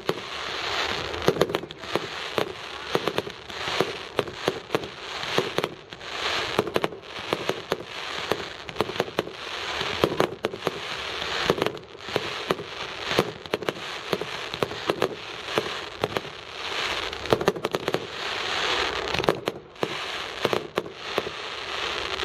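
Fireworks going off in a continuous barrage: many sharp bangs and pops over a steady crackling hiss, without a break.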